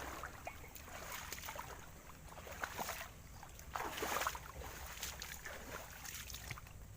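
Someone wading through shallow water, legs sloshing and splashing with each step, in uneven surges, the loudest around three and four seconds in.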